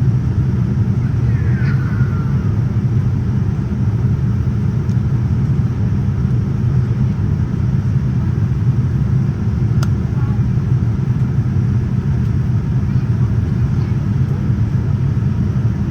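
Steady low cabin roar inside a Boeing 787-9 airliner in flight, the engines and airflow heard through the fuselage, with one faint click about ten seconds in.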